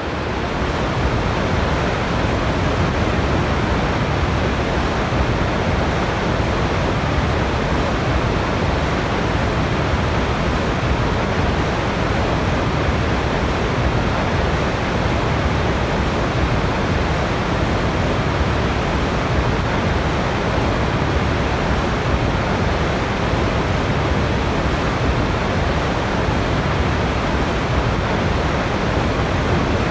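Waterfall, water rushing in a steady, unbroken wash of noise with a deep low end. It swells in over the first second, then holds level.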